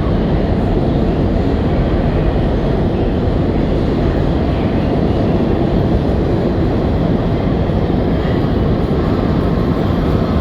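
Steady rumble and hum of an R211A New York City subway train, even and unbroken throughout.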